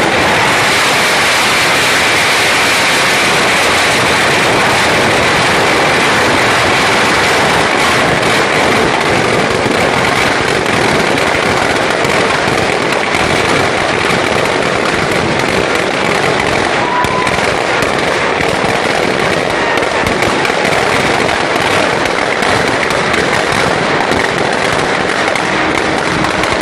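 Firecrackers going off in a dense, unbroken barrage of rapid crackling bangs.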